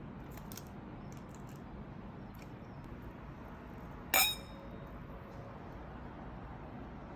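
A single sharp clink of a hard object, about four seconds in, ringing briefly, over faint room tone with a few small ticks.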